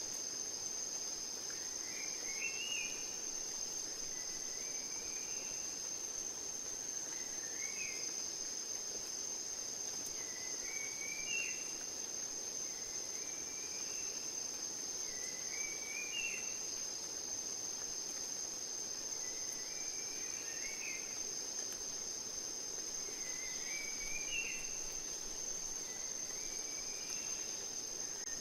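Nature ambience: a steady high-pitched insect trill throughout, with a bird repeating the same short rising call about every three seconds, ten times in all, over a soft steady background hiss.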